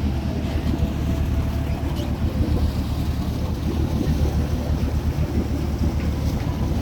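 Steady low rumble of boat engines idling at the dock, with wind buffeting the microphone.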